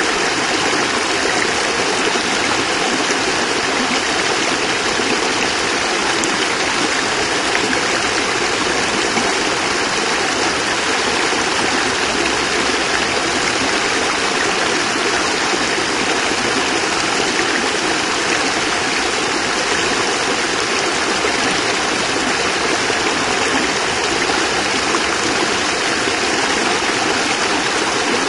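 Water of a small cascade rushing and splashing in a steady, even stream.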